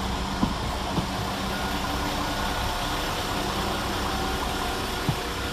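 Diesel engines of a Class 172 Turbostar unit running with a steady hum, with a few sharp knocks about half a second in, a second in and again near the end.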